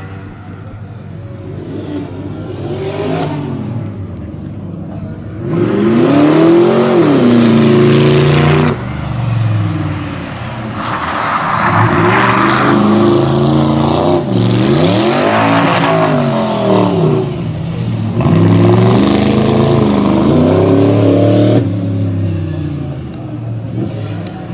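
Rally car engine at hard throttle, its note repeatedly climbing and then dropping sharply at gear changes and lifts. It swells loud about five seconds in and fades near the end.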